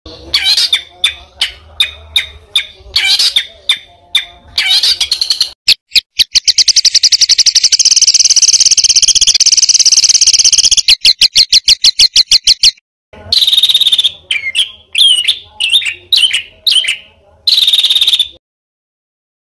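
Songbird song of the kind used as masteran to train competition birds: sharp repeated notes, then a long, fast, even trill from about six to thirteen seconds in, then more sharp calls. The song stops abruptly twice, as if recordings were cut together.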